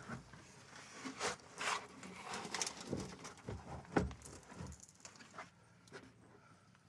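A scattered run of light knocks, clinks and scrapes from tools and metal parts being handled under the car, the loudest knock about four seconds in, thinning out after about five seconds.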